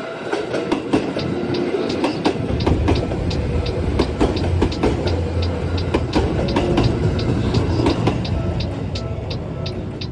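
A passing train: a low rumble that builds about two seconds in and eases toward the end, with a quick run of clicks.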